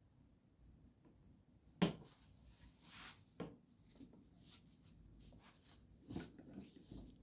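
A sharp knock a little under two seconds in, followed by quieter scraping and handling sounds with a few lighter knocks.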